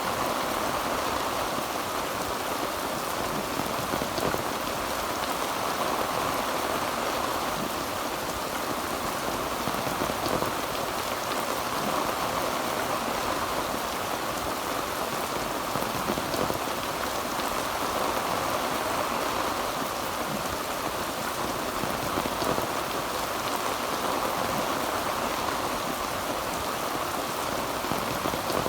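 Heavy rain falling steadily on a tin roof: an even, unbroken patter-hiss.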